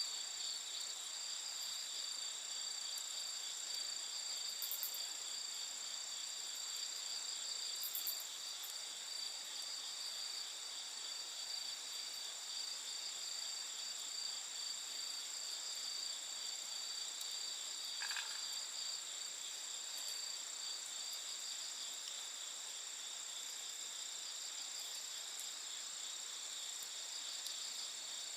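Steady chorus of night insects, several high trills sounding together without a break, with a few faint clicks early on and a brief small call about two-thirds of the way through.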